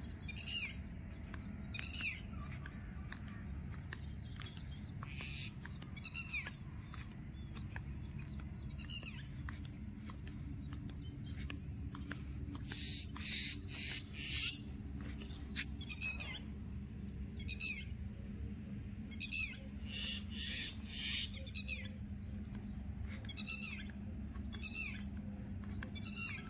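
A bird calling outdoors over and over, short falling high-pitched notes about every two seconds, with a quicker run of calls about halfway through. A low steady rumble lies underneath.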